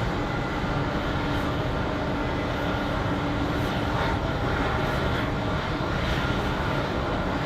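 Jet airliner engines running, a steady, even noise with faint steady tones in it.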